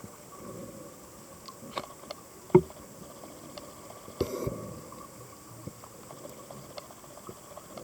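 Underwater ambience heard through a dive camera's housing: a faint steady hiss with scattered small clicks and crackles, a sharp knock about two and a half seconds in, and a short noisy rush about four seconds in.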